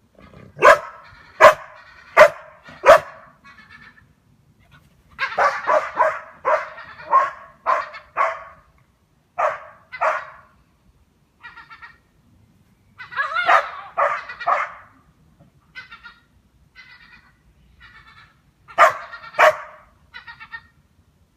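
Goldendoodle barking: four sharp barks in quick succession, then bursts of barking in several groups, with fainter short calls, likely gulls, in between.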